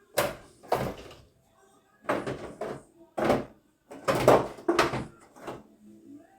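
Kitchen items being handled: a series of irregular knocks and clatters, some in quick pairs, typical of cupboard doors and containers being set down.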